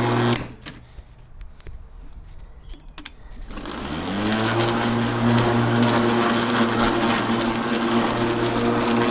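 Ozito PXC 36V cordless lawn mower's electric motor and blade running with a steady hum that cuts out about half a second in. After about three seconds of quiet with a few clicks, it spins back up with a rising whine and runs steadily again.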